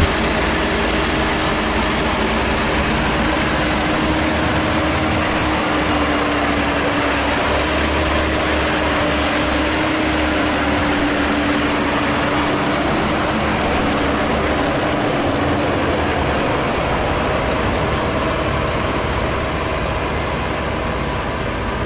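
Maxxi Bimo combine harvester running, a steady engine and machinery drone with a held, slightly wavering hum.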